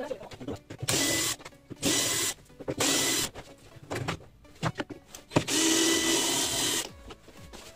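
Electric impact wrench running in short bursts, three quick ones and then a longer run of about a second and a half, loosening a tight large nut.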